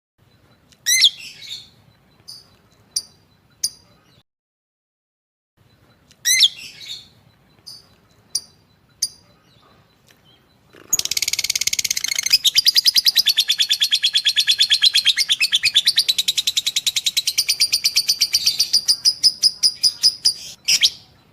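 Lovebird calling: two sharp chirps about five seconds apart, each trailed by a few short notes, then a long, rapid chattering trill of about ten seconds that slows into separate notes near the end. This is the long continuous trill (ngekek) prized in a 'gacor' fighter lovebird.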